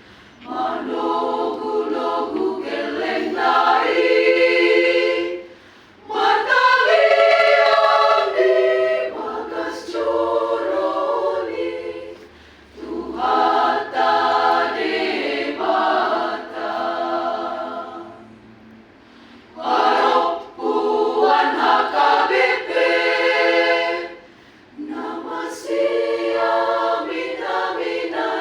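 Choir singing unaccompanied, in phrases of a few seconds each broken by short pauses for breath.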